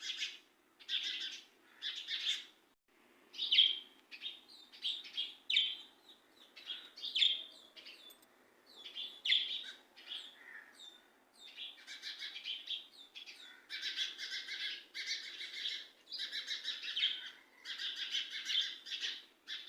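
Birds chirping: many short, high chirps in quick runs, with brief pauses between runs.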